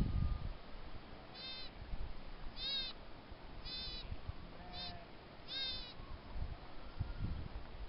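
Five short, high-pitched animal calls, about one a second, each briefly rising and falling in pitch, over a low rumble.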